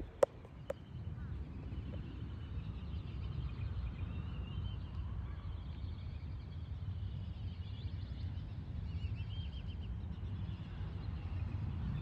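Faint distant birds calling, a run of high wavering calls through the middle of the stretch, over a steady low rumble. A sharp click just after the start is the loudest sound.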